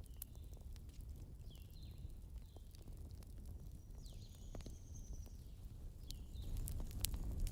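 Campfire crackling: scattered sharp pops over a low rumble, with the pops coming thicker and louder near the end. Small birds give short falling chirps several times, and once a longer high whistle.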